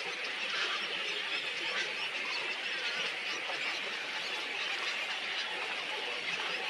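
A flock of small birds chattering and chirping all at once, a dense, unbroken twitter at an even level.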